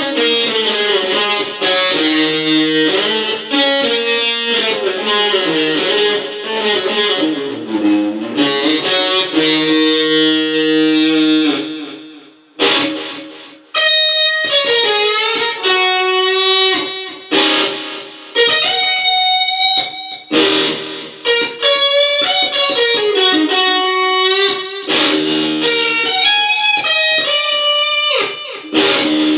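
Electric guitar playing a blues piece. It opens with chords and riffs, drops off briefly about twelve seconds in, then moves into single-note lead lines with bent, sliding notes.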